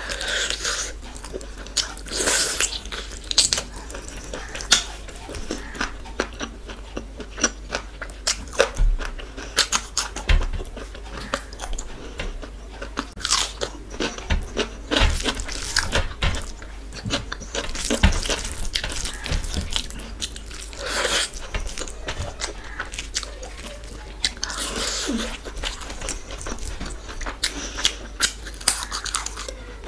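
Close-miked eating: a person chewing mouthfuls of rice, dal and chicken curry eaten by hand, with irregular crunchy bites and sharp mouth clicks.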